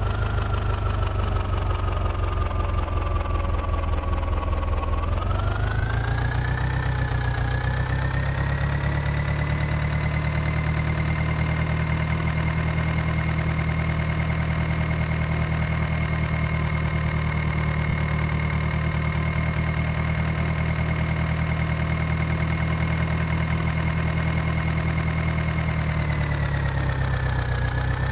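Small electric motor and gearbox of a DIY model tractor running with a steady whining drone. The pitch climbs about five seconds in, holds steady, then dips slightly near the end.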